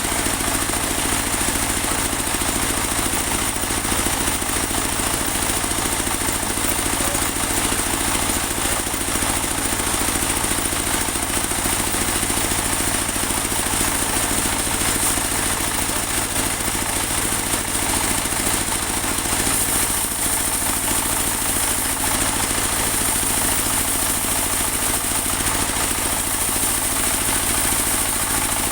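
Portable bandsaw sawmill running steadily, its engine droning without a break under a constant high hiss.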